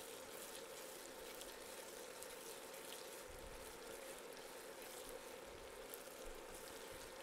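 Faint, steady sizzling of shallots, garlic and chilies frying in bacon fat in a non-stick pot, with a low hum underneath.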